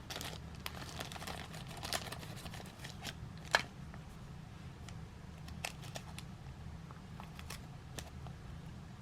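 Trading card packs and cards handled by hand: soft paper rustling and crinkling with scattered light clicks and taps, one sharper click about three and a half seconds in.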